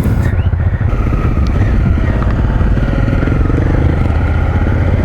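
Motorcycle engine running steadily with a low pulsing note, heard from the rider's seat as the bike sets off.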